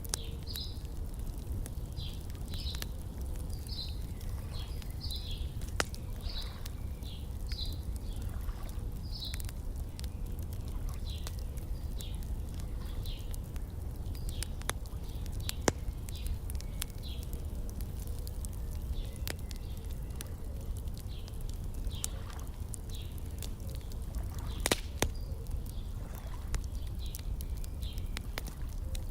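Wood fire crackling, with scattered sharp pops over a steady low rumble, one pop much louder near the end. Short high bird chirps repeat about once a second through the first half and thin out later.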